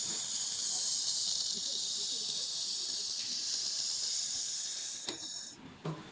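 Handheld fiber laser welder in use on steel, giving a steady high hiss that cuts off about five and a half seconds in, followed by a couple of faint clicks.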